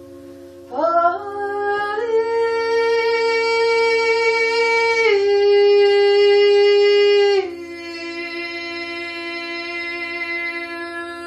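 A woman sings long wordless held notes over the steady ringing drone of a singing bowl. Her voice slides up into a held note about a second in, steps down to a lower note near the middle, and stops about two-thirds of the way through, leaving the bowl ringing on.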